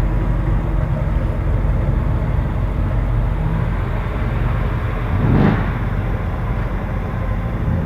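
Car engines rumbling low as show cars drive slowly past, with one louder swell about five and a half seconds in as a car goes by or revs.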